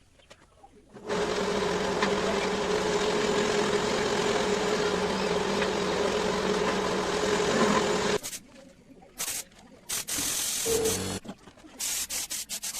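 A small electric power tool's motor runs steadily for about seven seconds and stops suddenly, then starts again in several short bursts.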